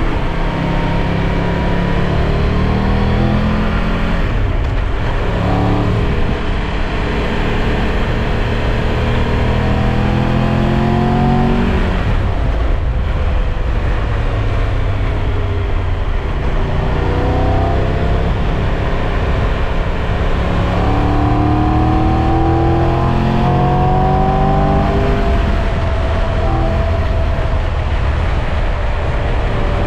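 Triumph Tiger 1200 Rally Pro's three-cylinder engine under way, its pitch climbing as it revs and then dropping back at each gear change, several times over, with steady wind and road noise underneath.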